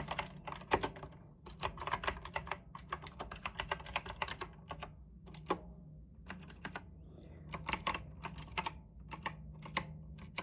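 Typing on a compact tenkeyless mechanical keyboard: irregular runs of quick key clacks with short pauses between them. The keys sound a bit hollow, which the owner wants to damp with tape and foam inside the case.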